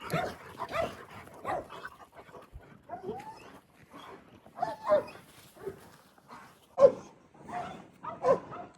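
Dogs barking and yelping in a quick, irregular series of short barks, the loudest about seven seconds in.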